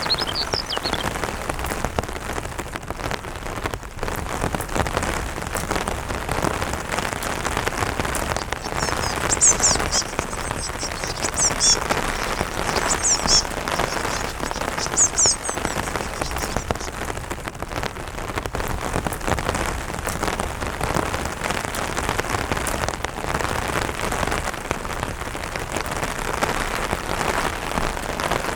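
Steady light rain falling on an umbrella. A bird gives a run of short, high chirps about a third of the way in.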